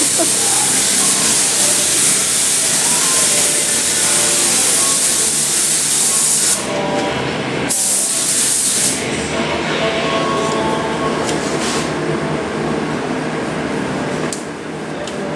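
Spray gun spraying primer: a loud, steady hiss for about six and a half seconds that cuts off, a second pull of about a second and a half, then a few short spurts over a steady background hum.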